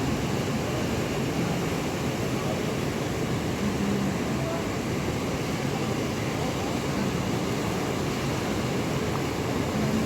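Steady, unbroken noise of wind and surf on a rough monsoon sea.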